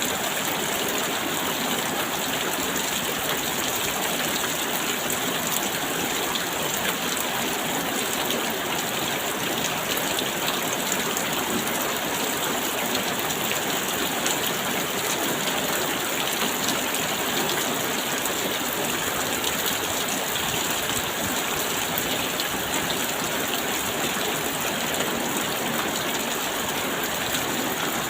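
Steady rain falling, a dense even hiss of water with many fine drop patters.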